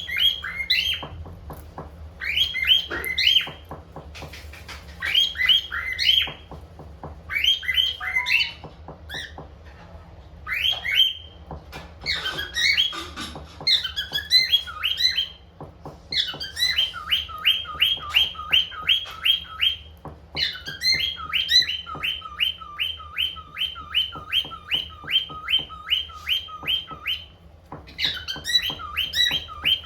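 Pet cockatiel whistling and singing: short bursts of whistled phrases every second or two, then, about halfway through, a long run of quick repeated whistle notes, about two or three a second, over a low steady hum.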